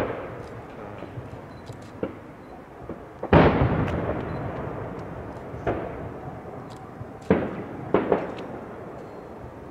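Aerial firework shells bursting one after another, about six bangs with the loudest about three seconds in and a quick double bang near the end. Each bang trails off in a long rolling echo.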